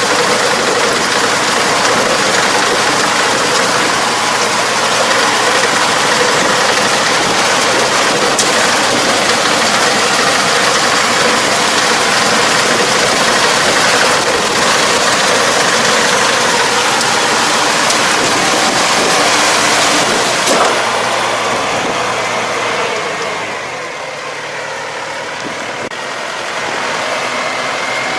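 Farm machine engine running steadily. It drops in level about 23 seconds in and picks up a little near the end.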